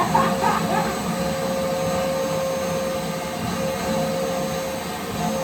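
Vacuum cleaner running steadily with a held whine, sucking dust out of a hole; the whine dips briefly about three and a half seconds in.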